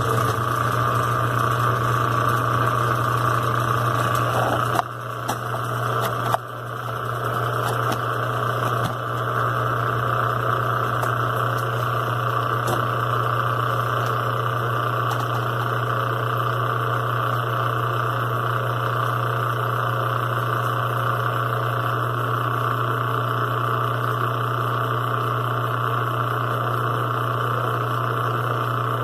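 Brastemp BWQ 24 washing machine running with a steady motor hum, dipping briefly twice about five and six seconds in.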